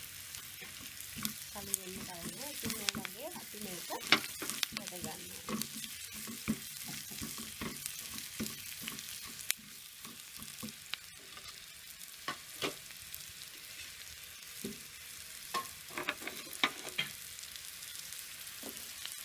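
Onions, curry leaves and green chillies sizzling in oil in a nonstick frying pan while being stirred, with sharp taps and scrapes of the spatula against the pan now and then.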